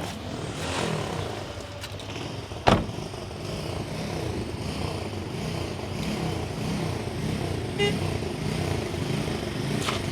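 Engine noise of road traffic, a vehicle engine running steadily and growing a little louder, with a single sharp thump about three seconds in.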